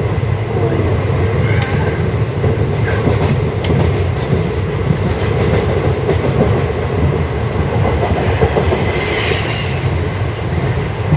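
Sabari Express passenger train running on the rails, heard from inside the carriage: a steady low rumble with a few sharp clicks of the wheels in the first few seconds.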